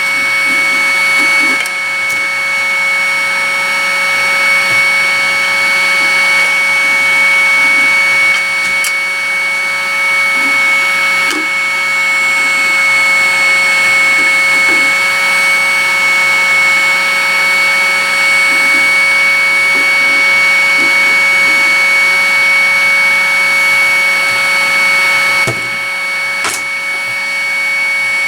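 Hot air rework station blowing steadily, giving a steady rushing hiss with a high whine from its fan, as it heats a motherboard's CPU socket for BGA desoldering. The loudness dips slightly near the end.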